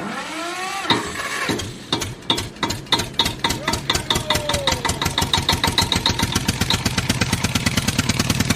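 Tractor engine cranking over and catching, its beats quickening until it settles into a steady chugging idle at about seven beats a second.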